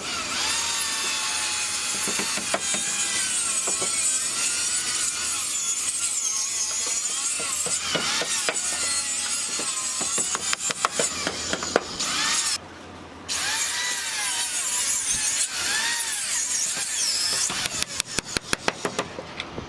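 Power saw cutting wooden roof boards, a continuous noisy whine whose pitch wavers as the blade works through the wood, stopping briefly about two-thirds of the way through. Near the end comes a rapid series of sharp clicks.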